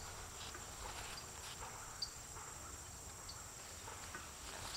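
A steady, high-pitched drone of crickets or other insects chirring in the field, with faint rustling and a light click or two.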